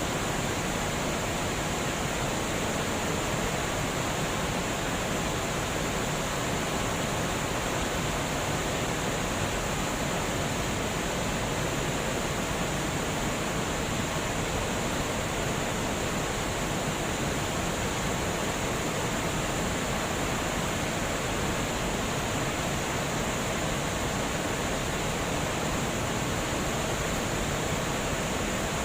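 Water rushing steadily over a dam, a constant even roar of falling and flowing water.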